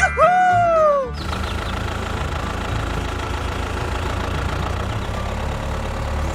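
A short cartoon sound effect of arching, falling whistle tones, then the DIY mini tractor's small motor running steadily with a low rumble.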